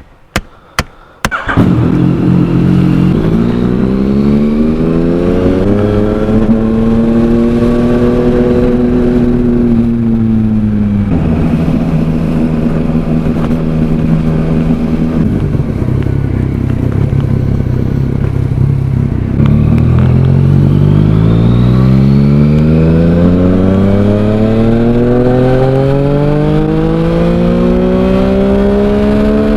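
Yamaha Tracer 900's inline three-cylinder engine through a Mivv Oval titanium exhaust, coming in loud after a few sharp clicks. It rises in pitch as it accelerates, holds steady, drops suddenly in pitch twice, then climbs again in one long rise.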